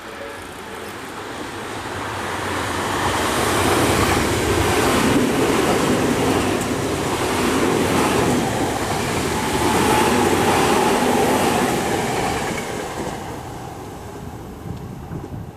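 Tokyo Metro 10000 series electric train passing through a station at speed. Its wheels clatter in a regular rhythm as the cars go by. The sound builds over the first few seconds, stays loud through the middle, and fades away near the end.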